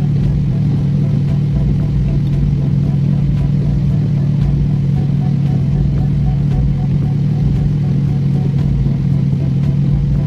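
Car engine idling, heard inside the cabin as a steady low hum over a rumble.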